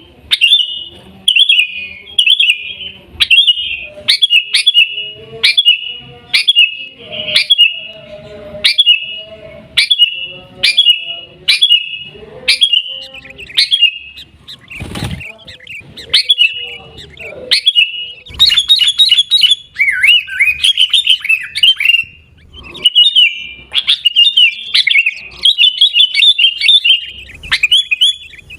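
Sooty-headed bulbul (kutilang) calling: short bubbly whistled phrases repeated about once a second, then faster, denser chattering in the last ten seconds.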